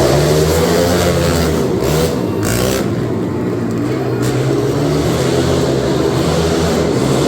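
Monster truck engines revving hard, their pitch rising and falling as the trucks accelerate and back off.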